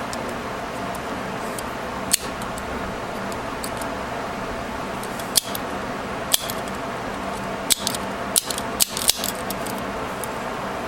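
Sharp metal clicks from a staple remover's jaws being squeezed shut and springing open, with rubber bands supplying the recoil tension that its worn spring steel no longer gives. There are about eight clicks, spaced irregularly and coming faster in the second half, over a steady background hum.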